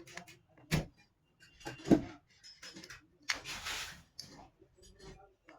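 Small metal parts and tools clicking and knocking while a motorcycle starter motor is worked on, with a loud knock about two seconds in and a short rasping scrape a little past the middle.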